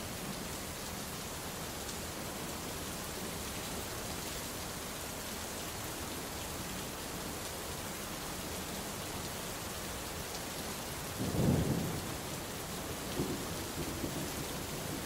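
Steady heavy rain falling, with a roll of thunder rumbling in about eleven seconds in and fainter rumbles following.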